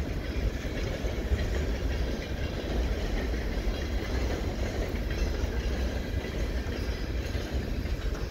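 Freight train boxcars rolling past, a steady noise of steel wheels on the rails.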